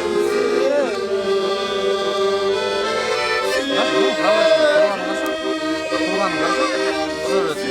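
Accordion playing a folk-style tune over steady held chords.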